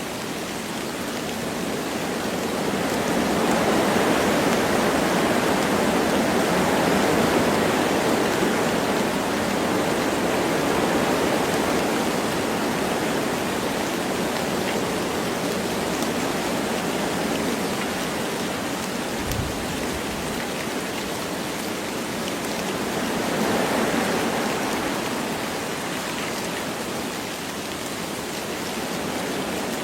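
Wind blowing through forest trees with light rain: a steady rushing noise that swells in gusts, a few seconds in and again about three quarters of the way through.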